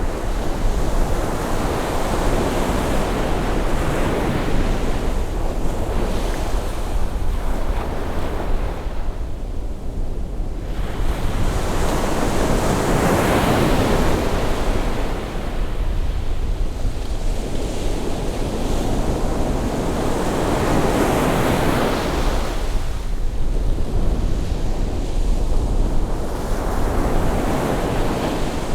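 Ocean waves breaking on a beach at rising tide, a steady surf wash that swells with each incoming wave about every eight seconds. There is a low rumble of wind on the microphone underneath.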